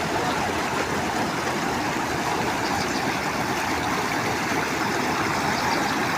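Water rushing steadily at a dam, a dense even noise with no breaks or changes.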